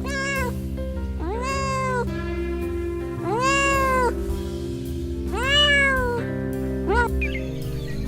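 Domestic cat meowing five times, each meow rising then falling in pitch: a short one at the start, three longer, louder ones, and a short one near the end, over steady background music.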